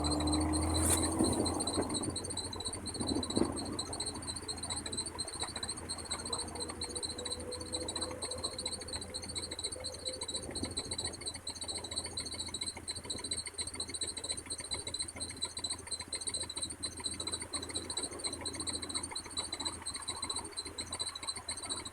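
Level-crossing warning bell (classic electric bell of an AŽD-71 crossing) ringing continuously as a rapid, even trill. Under it, a low rumble is loudest in the first two seconds and then settles to a steady background.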